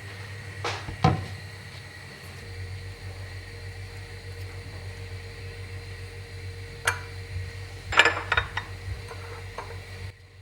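A steady kitchen-appliance hum that settles in about two and a half seconds in, with a few sharp clicks and light clinks of kitchenware, a pair near the start and a cluster near the end.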